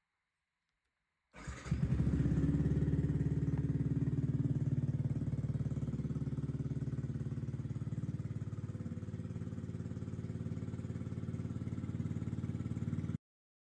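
Yamaha MT-125's single-cylinder four-stroke engine, fitted with a Black Widow aftermarket exhaust, started about a second in and settling into a steady idle. It cuts off suddenly near the end.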